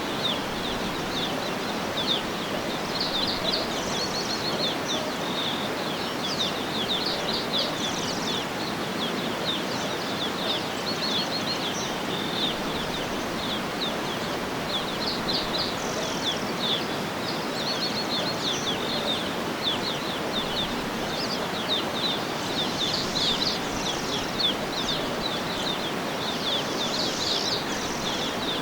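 Outdoor nature ambience: many small birds chirping continuously in quick high notes over a steady background noise.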